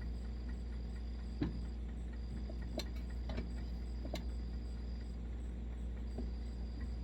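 A few light clicks and taps, about four in the first half, from handling the stove's metal parts, over a steady low background hum.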